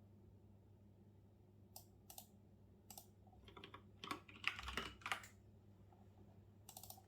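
Computer keyboard typing in short bursts: a few single keystrokes, then a quick run of keys about halfway through, the loudest part, and a brief flurry near the end.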